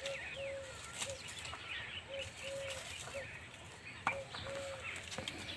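Birds calling: one bird repeats a low, even-pitched note pair, a short note then a longer one, about every two seconds, over the chirps of small birds. A sharp click about four seconds in.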